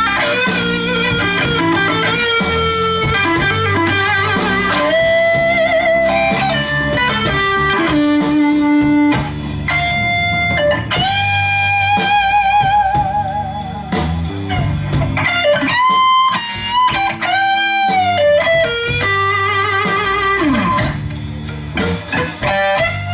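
Blues band playing a slow blues with no vocals: an electric guitar takes the lead with held, wavering notes and string bends, over bass and drums.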